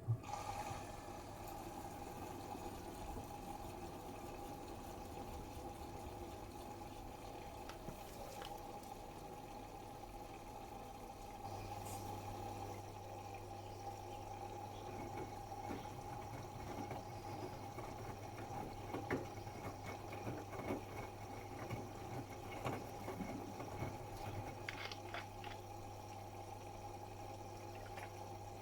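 Bosch Serie 8 WAW32590 washing machine taking in water: a sharp click at the start, then a steady flow of water running into the machine, with scattered drips and small splashes in the second half.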